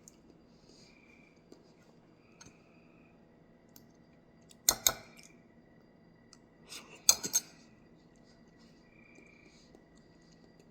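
Two brief clusters of sharp clicks, one about four and a half seconds in and a second, longer one about seven seconds in, over a faint background of soft repeated chirps.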